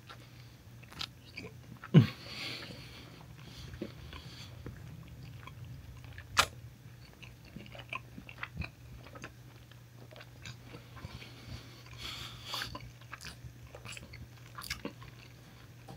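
Close-up chewing and mouth smacks of a person eating a soft-roll buffalo chicken cheesesteak, with scattered sharp clicks, the loudest about two seconds in and another about six and a half seconds in.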